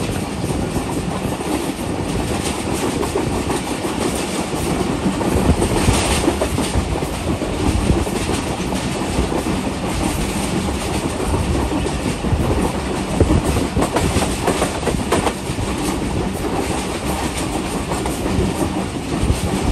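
Train running at speed heard from on board: a steady rumble and rush of noise, with wheels clicking over rail joints all the way through.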